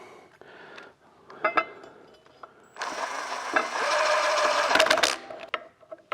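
A drill fitted with a right-angle attachment runs steadily for about two seconds, driving in a bandsaw mounting screw. A few light clicks come before it.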